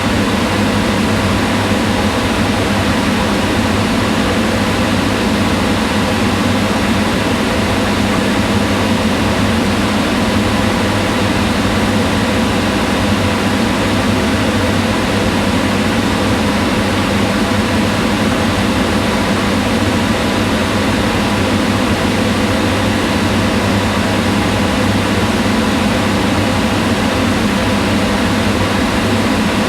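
Kitchen range hood fan running steadily, a constant whirring hum of fan and rushing air with a low drone.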